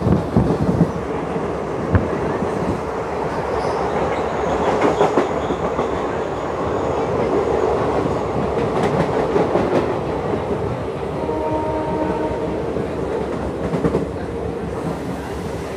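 Passenger train running along the track, heard from inside a carriage at an open window: a steady rumble of wheels on rails with scattered clacks. The horn sounds faintly for about three seconds near the end.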